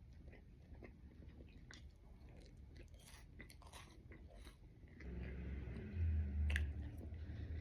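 A person chewing and biting breakfast food, with many short crisp crunches. About five seconds in a louder low rumble joins the chewing, peaking around six seconds.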